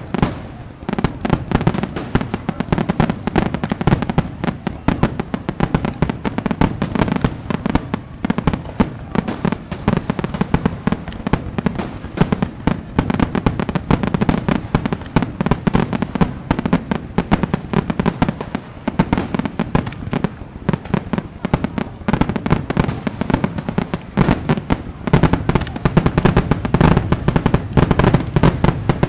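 Fireworks going off in a rapid, continuous barrage of bangs and crackles that never lets up.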